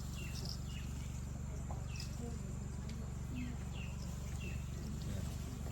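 Short, high chirps of small birds repeated every half second or so. A steady low hum and a thin, steady high whine run underneath.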